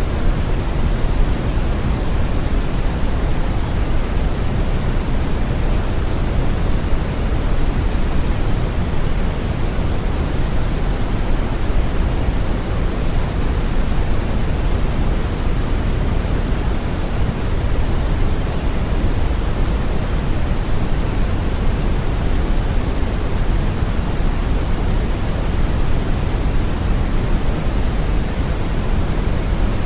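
Steady brown noise: an even, deep rushing hiss weighted heavily toward the low end, unchanging throughout.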